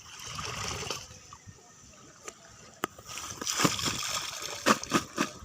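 Water sloshing and splashing, with a single sharp click about three seconds in and then a quick run of louder splashes near the end.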